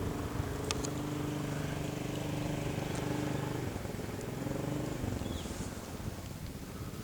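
A motor engine running steadily at low speed, its pitch wavering slightly about four to five seconds in.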